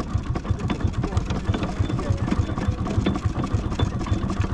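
Miniature steam traction engine running in bottom gear, its low beat repeating steadily about six times a second.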